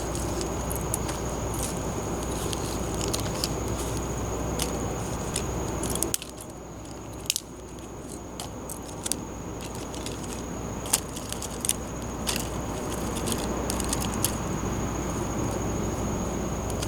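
Wood campfire crackling, with irregular sharp pops over a steady hiss and a thin steady high tone.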